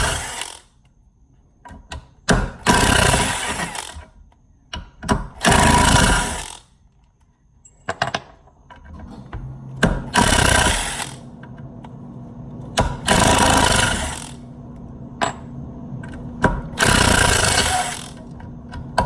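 Ryobi cordless impact driver hammering in short bursts, six times about every three seconds, driving 3-inch wood screws. A steady low hum joins about halfway through.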